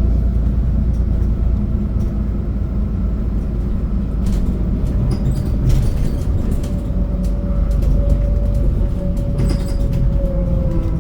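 Scania CN280UB Citywide city bus's diesel engine running, with a steady low rumble and a faint whine that dips slightly near the end. A few sharp rattles are heard along the way.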